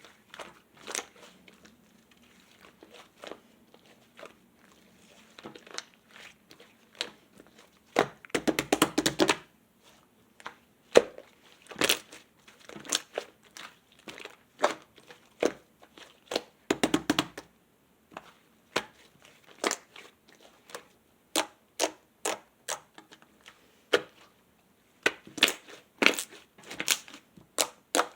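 Slime being squeezed and mixed by hand: a string of sticky clicks and pops, with two longer crackling, crunchy stretches about a third and about two-thirds of the way through.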